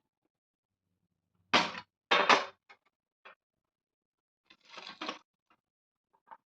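Kitchenware clattering: two loud clattering knocks about one and a half to two and a half seconds in, a few light clicks, then a short scraping rattle about five seconds in.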